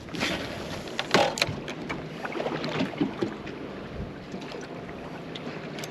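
Scattered knocks and clicks of handling aboard a small fishing boat, the sharpest about a second in.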